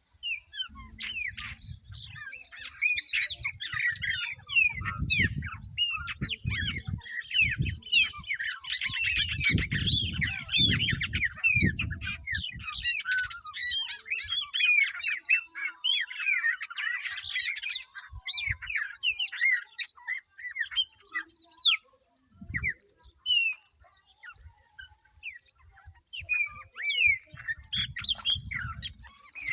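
A chorus of several bird species singing and calling at once: dense, overlapping chirps and quick sweeping whistles, busiest through the first half. Bursts of low rumble come and go beneath the birdsong.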